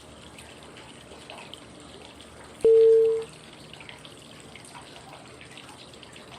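Steady running-water white noise with trickling and dripping. About two-thirds of the way through, a single clear cue tone sounds for about half a second, marking the next five-second step of a 5-5-5 breathing count (inhale, hold, exhale).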